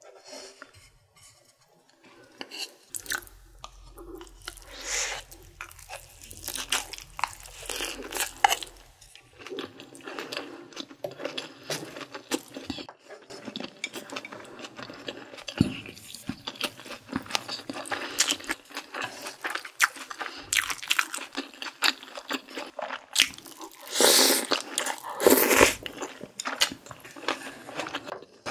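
Close-miked mouth sounds of a person chewing a mouthful of rice and egg-battered pan-fried beef (yukjeon): many small irregular wet clicks and crunches, with two louder bursts of chewing a few seconds before the end.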